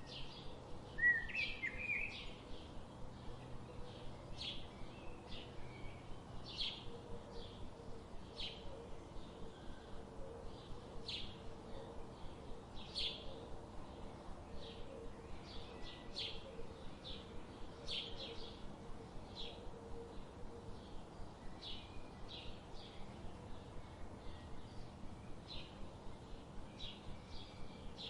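Songbirds chirping: short high chips repeat steadily, about two a second, with a brief louder warbled phrase about a second in.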